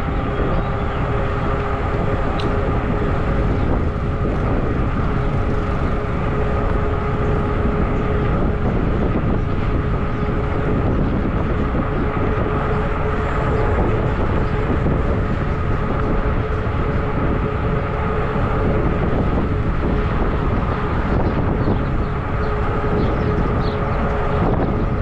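Zota Zephyr 20-inch fat-tire e-bike riding along: steady wind rush and road rumble on the microphone, with a steady whining hum running through it.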